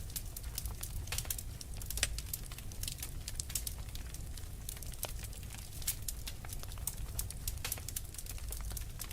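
Wood fire crackling, with many irregular sharp pops and snaps, over a low steady rumble of blizzard wind.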